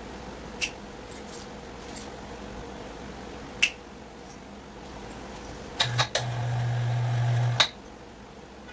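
A few sharp clicks, then an electric device clicks on and buzzes steadily with a low hum for about a second and a half before clicking off. A low steady hum runs underneath.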